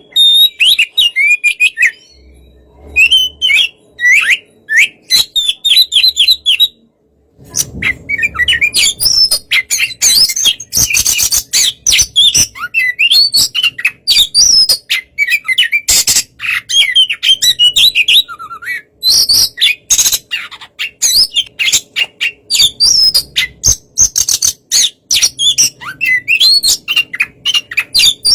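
Oriental magpie-robin singing a fast, continuous song of varied chirps, whistles and sharp notes, with a short break about seven seconds in.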